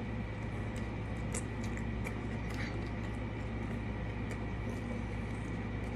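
A person biting into and chewing a cheeseburger, with faint wet mouth clicks now and then over a steady low hum.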